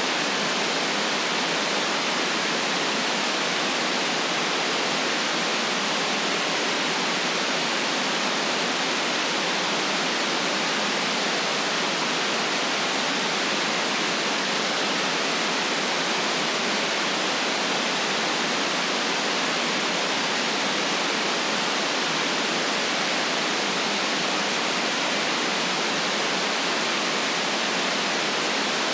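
Steady white noise: an even, unchanging hiss with no deep bass, holding at one level throughout.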